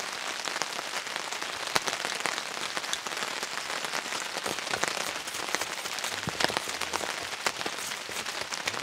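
Steady rain falling, with many sharp ticks of close drops landing.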